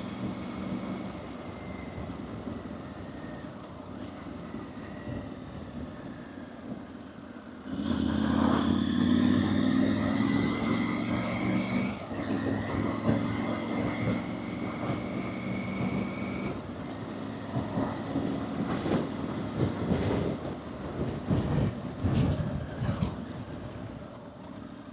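Motorcycle engine running on the move. About eight seconds in it gets louder and rises in pitch as the bike accelerates, breaks off once as if through a gear change, rises again, then eases back to a steadier run.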